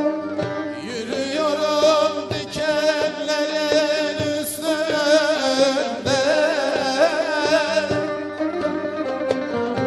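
Turkish fasıl folk music: a voice sings long, wavering, ornamented notes over plucked-string accompaniment and regular percussion strikes, with the voice dropping out near the end.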